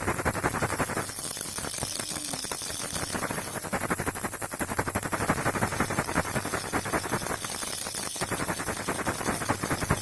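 A baby rattle shaken without a break: a fast, steady rattle of many small clicks.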